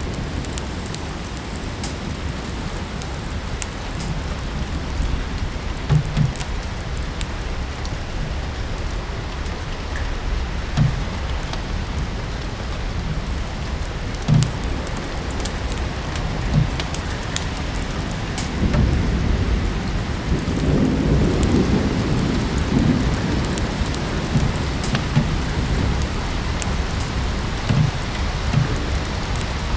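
Steady rain mixed with a fireplace crackling, with sharp pops every few seconds. A low rumble swells and fades about twenty seconds in.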